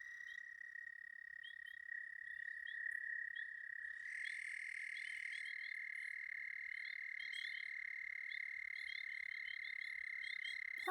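Frogs calling in a night chorus at a pond: long unbroken high trills, with a second trill joining about four seconds in, and many short chirps repeating over them.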